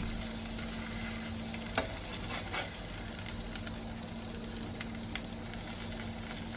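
Tortilla wrap frying in a non-stick pan: a steady sizzle, with a couple of light knocks of a plastic spatula against the pan about two seconds in. A faint low hum runs underneath.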